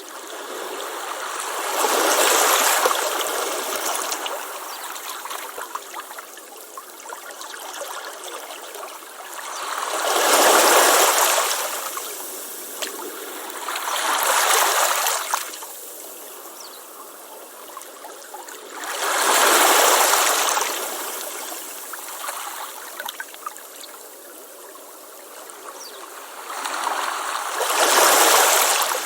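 Ocean waves breaking on a beach: five swelling rushes of surf, each fading back into a softer fizzing wash before the next arrives.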